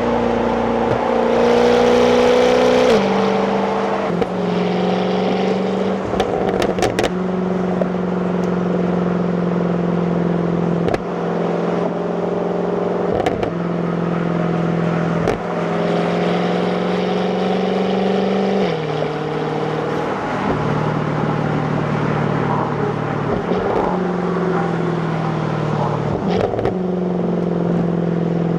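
Jaguar F-Type's supercharged 5.0 V8 on its stock exhaust, heard from the passenger seat while driving at moderate, steady revs. The engine note steps in pitch at several gear changes, some of them marked by a short crack.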